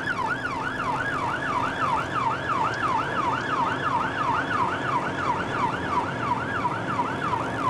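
Police patrol car siren sounding a fast yelp, its pitch sweeping down and up about three times a second at a steady level, over the faint hum of the car.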